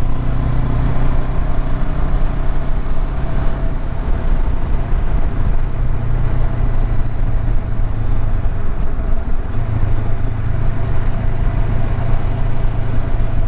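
Motorcycle engine running steadily at road speed, with wind rushing over the helmet-mounted microphone; the engine note shifts slightly about ten seconds in.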